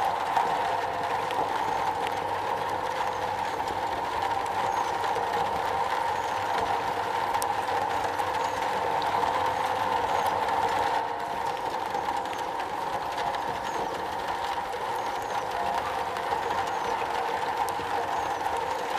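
Steady rain drumming on a metal roof, a dense, even patter of drops on sheet metal.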